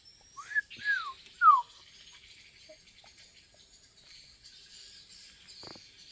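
Talking bird giving three short whistled notes in quick succession, each arching up and then sliding down in pitch, over a faint steady high background hiss. A soft knock comes near the end.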